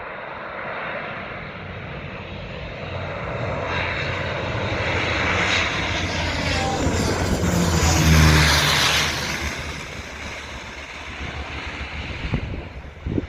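A Widerøe propeller airliner passing close as it lands. The engine and propeller noise swells to a peak about eight seconds in, drops in pitch as the plane goes by, and then fades away.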